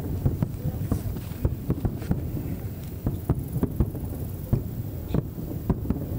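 Aerial fireworks shells bursting in quick, irregular succession: a run of sharp booms, several a second, over a continuous low rumble.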